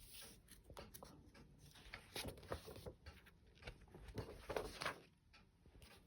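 Paper rustling as the pages of a thin children's book are turned and handled, in soft scattered rustles with a few louder ones.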